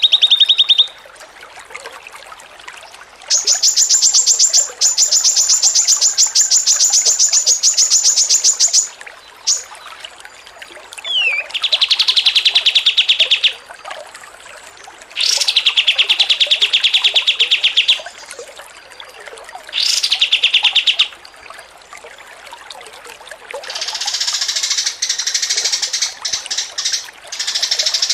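Songbird 'ngocor receh' masteran song: bursts of very fast trilled notes a few seconds long, some high and some lower, separated by short pauses, turning into denser continuous chattering near the end.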